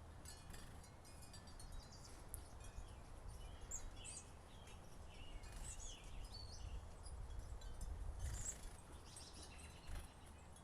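Chickadees giving short, high chirps and calls now and then, faint over a steady low rumble of wind or outdoor background.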